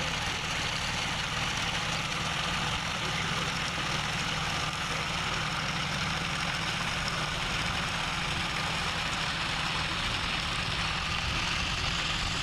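John Deere tractor engine running steadily while working a Shaktiman rotavator, with an even hiss over the low engine note.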